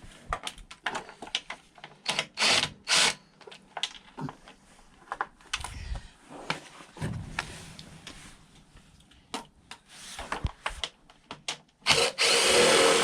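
Scattered clicks, knocks and rattles of hand tools and plastic parts as a scooter's air filter box is worked loose, with two louder knocks about two and a half seconds in. Near the end a loud noisy burst lasts about a second and a half.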